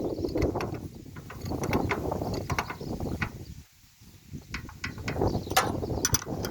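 Spanner work on a stopped two-cylinder Deutz engine while its valve clearances are set: irregular metallic clicks, ratcheting and scraping, with a short pause a little past halfway.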